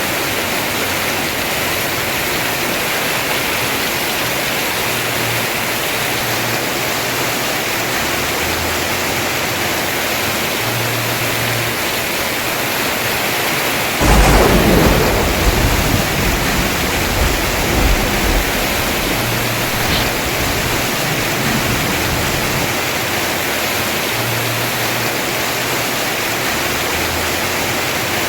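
Heavy rain falling steadily on a house roof. About halfway through a sudden crack of thunder breaks in and rolls off as a low rumble over several seconds.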